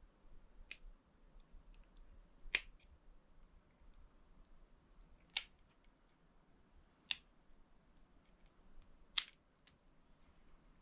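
Nail scissors snipping through the wires of a solder-tinned wire-mesh oil tank gauze: five sharp clicks, unevenly spaced about two seconds apart.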